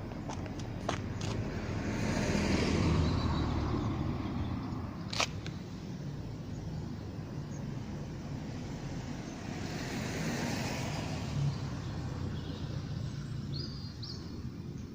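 Road traffic: two cars passing in turn, each swelling and fading over a few seconds, the first about three seconds in and the second about ten seconds in. There is a sharp click about five seconds in and a short high chirp near the end.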